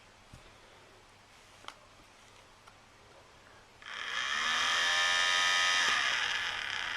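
Small fan motor of a battery-powered portable nail polish dryer switching on about four seconds in, its whine rising as it spins up, then running steadily and starting to die away near the end. A few faint clicks come before it.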